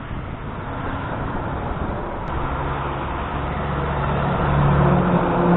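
Truck engine running as it approaches along the highway with tyre and road noise, growing steadily louder to its nearest point near the end.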